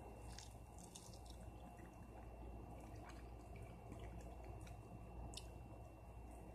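Faint chewing and wet mouth clicks of a person eating a breaded fried chicken leg. The breading is chewy rather than crunchy, so there is no crunch, only scattered small smacks over a low steady hum.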